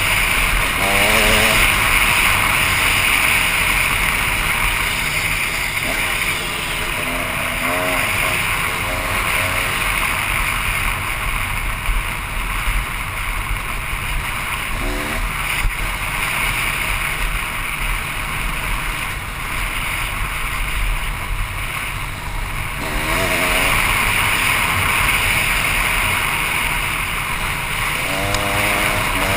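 KTM 300 EXC two-stroke dirt bike engine revving up in short bursts over a steady rush of wind noise on the microphone.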